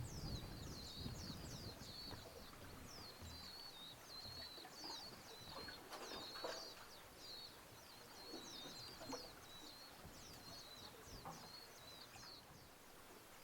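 Small birds chirping in a steady run of quick, high, downward-sweeping notes, with a low rumble during the first few seconds.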